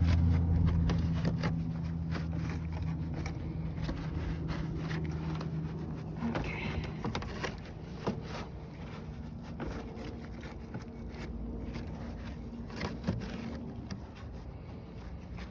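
A steady low engine hum that fades away over the first half, with scattered light clicks and taps.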